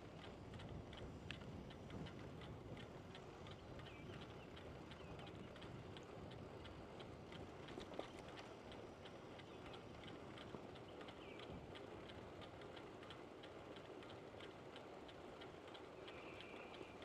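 Faint, even ticking of a bicycle's freewheel, a few clicks a second, over a low rumble of tyres on the road. A few short high chirps come now and then.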